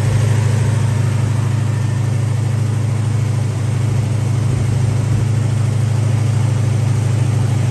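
Car engine idling steadily with the air-conditioning system running.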